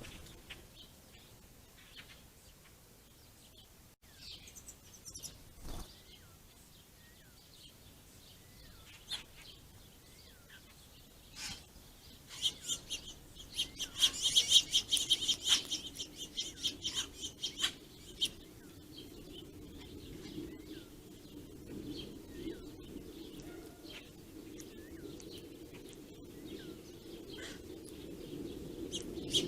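Small songbirds chirping: scattered single chirps, then a busy run of rapid high chirps about halfway through. A faint low steady hum comes in during the second half.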